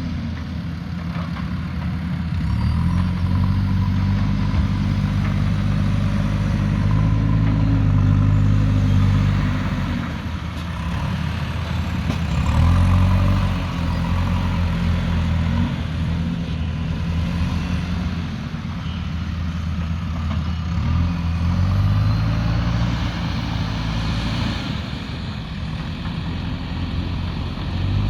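Diesel engine of a heavy digging machine working under load, revving up and down in repeated cycles: it rises about two seconds in, drops around ten seconds, rises again near twelve and again around twenty-one seconds.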